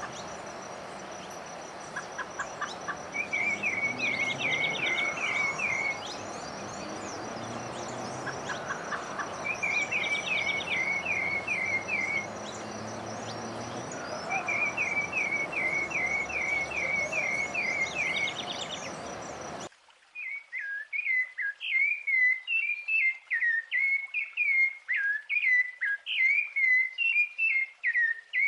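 Wild songbirds singing. One bird repeats a short phrase of about seven quick notes three times over a steady high tone and fainter background calls. About two-thirds of the way through there is an abrupt change to a different, continuous rapid warbling song.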